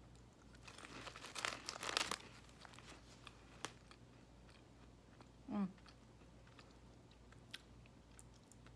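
Crisp crunching of an original Cheez-It cracker being bitten and chewed, fast sharp crunches for the first two seconds, then quieter chewing with a few small clicks. A brief hum falling in pitch about five and a half seconds in.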